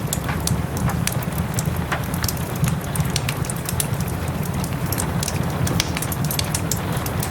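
Wood fire in a fireplace crackling, with frequent small sharp pops over a steady low rush, mixed with soft rain.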